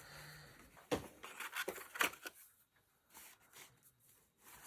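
Sheet of cardstock being handled and set down on the craft mat: a few light taps and paper rustles, the sharpest about one and two seconds in.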